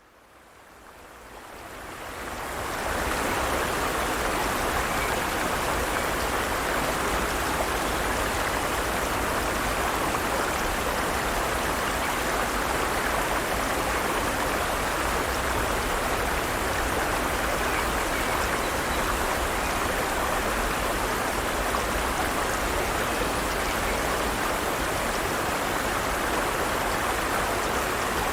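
Forest stream running steadily over rocks, a constant rush of flowing water that fades in over the first three seconds.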